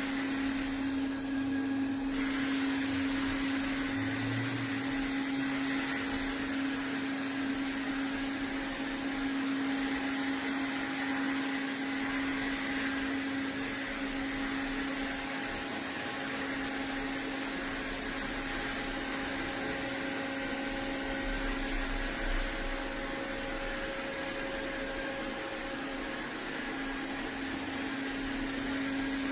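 iRobot Roomba Combo 405 robot vacuum running steadily, its motor giving an even hum with a fan hiss.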